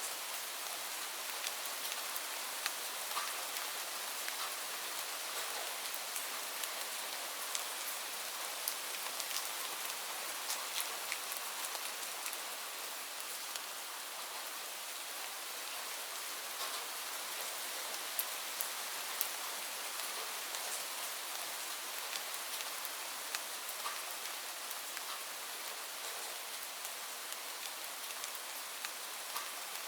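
Steady rainfall: a continuous hiss of rain with many small drop ticks scattered through it.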